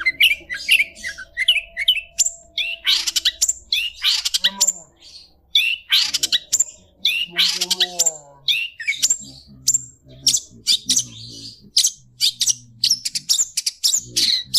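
Long-tailed shrike (cendet) singing vigorously, a dense, rapid run of sharp chirps and short whistled phrases with a few lower notes mixed in. The song is filled with mimicked yellow-vented bulbul (trucukan) phrases.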